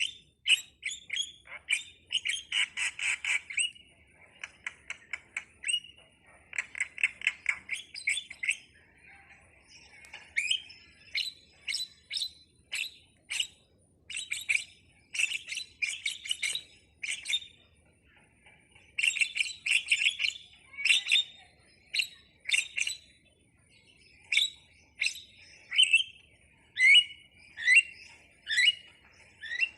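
Jalak (starling or myna) singing: bursts of rapid, repeated chirps mixed with short squawky notes, broken by brief pauses, ending with a run of single notes about one a second.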